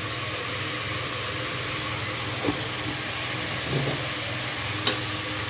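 Chopped vegetables frying in ghee and oil in a pressure cooker: a steady sizzling hiss, with a few faint clicks.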